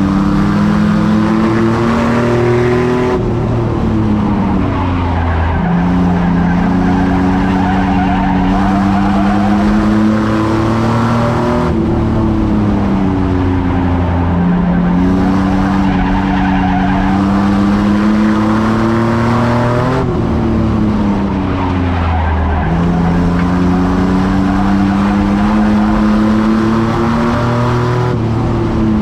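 Race truck engine running hard lap after lap on a short track. Its pitch drops about every eight seconds as it lifts for a corner, then climbs again down the straight.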